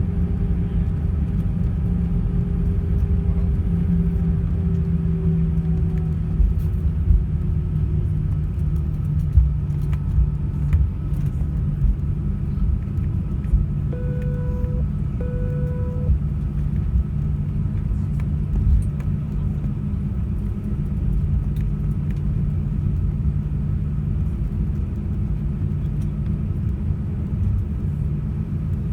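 Airbus A320 cabin noise: a steady low rumble, with the engine whine slowly falling in pitch over the first several seconds as the engines spool down. A few short knocks follow, and two short, identical beeps sound about a quarter of the way through.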